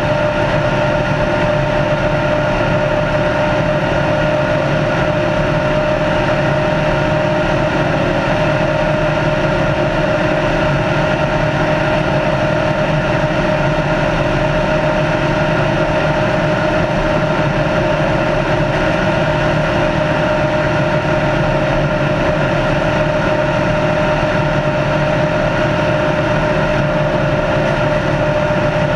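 Race car engine running at a steady speed, heard on board the car over road and wind noise, its pitch holding constant throughout.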